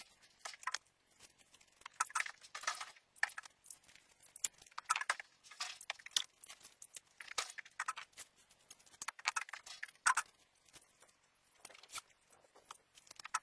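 Irregular light rustling and crackling: a scatter of short, dry noises with no steady tone.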